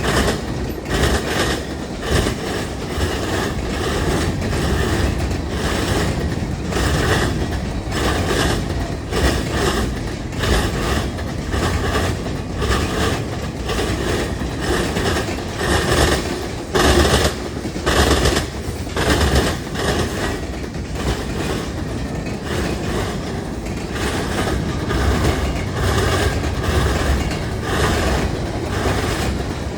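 Freight train rolling past, its steel wheels clattering on the rails in an irregular run of knocks and clicks over a steady low rumble, with a louder cluster of knocks about halfway through.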